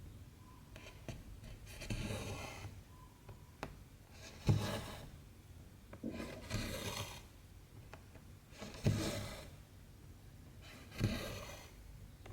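Cross-stitch needle and cotton thread pulled through 14-count stitching fabric, each stitch a soft tap followed by a brief swish of thread, about every two seconds.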